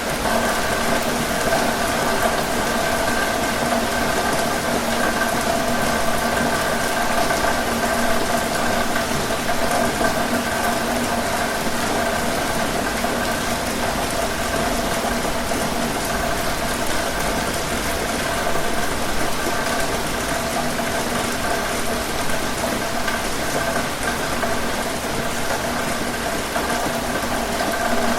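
Steady heavy rain drumming on a tin roof, with a constant hum of several steady tones underneath.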